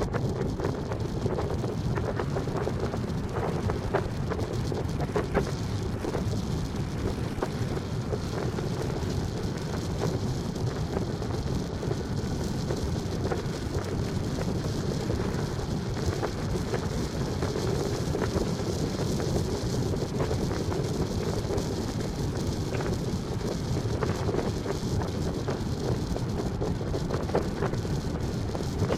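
Steady wind noise on the microphone over a low rumble, with many small crackles throughout.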